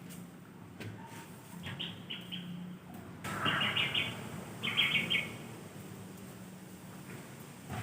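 Birds chirping in three short, rapid trills near the middle, over a faint steady background hum.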